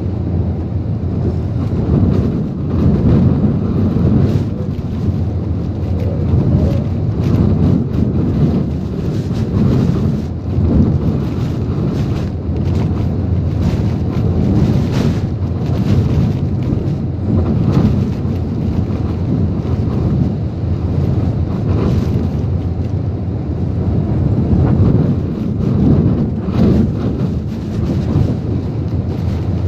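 Typhoon-strength wind blowing in gusts with driving rain, the wind rumbling heavily on the microphone and swelling and easing every few seconds.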